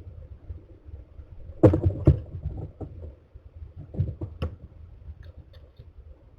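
Sharp knocks and scrapes on wood, in two clusters, the first the loudest, with a few faint high ticks afterwards: a bird landing and shuffling at a nest-box entrance.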